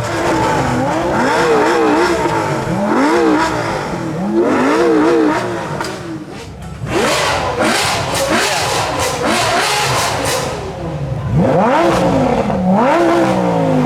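Supercar engine revving in repeated blips, its pitch rising and falling with each one, then climbing in further sharp runs near the end.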